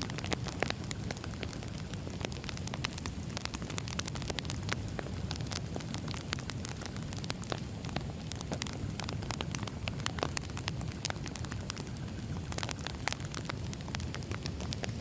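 Wood fire burning, with irregular sharp crackles and pops from the burning logs over a steady low rumble of the flames.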